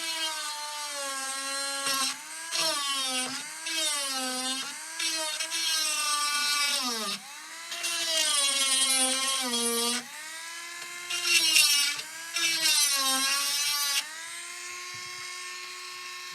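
Small handheld rotary tool running, its pitch dipping and recovering again and again as it is pressed into and lifted off the board, grinding away burned material on a laptop motherboard. Near the end it runs at a steady speed, free of load.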